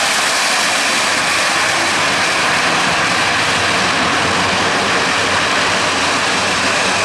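Airbus A400M's four turboprop engines in maximum reverse thrust with hard braking during a short landing: a loud, steady rush of propeller and engine noise.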